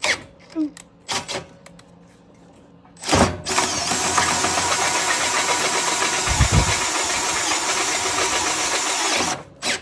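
Makita 18-volt cordless drill with a half-inch cobalt bit boring through steel channel iron. After a few light handling clicks, it starts about three seconds in and runs steadily under load for about six seconds, then stops suddenly. A low thump sounds about midway through the run.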